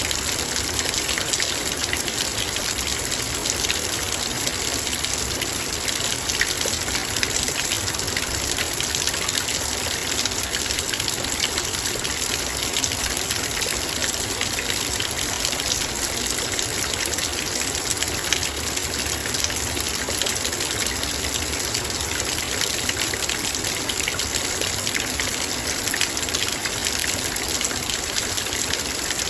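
Heavy rain falling on a metal bowl: a steady, dense hiss of rain peppered with countless quick drop ticks on the metal.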